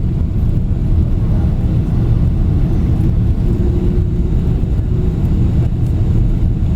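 Airliner cabin noise during the landing: a steady, loud, low rumble of the engines and airflow, with a faint steady hum.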